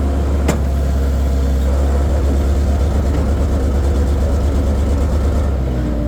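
Skid-steer loader engine running steadily with a deep rumble, with one sharp click about half a second in.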